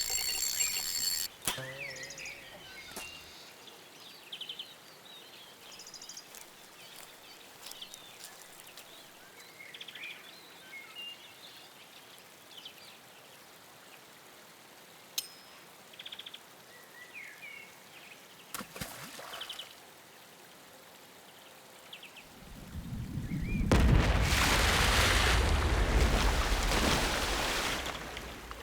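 Outdoor ambience with scattered short bird chirps and a few faint clicks. About 23 seconds in, a loud rushing noise swells up, runs for about five seconds and fades.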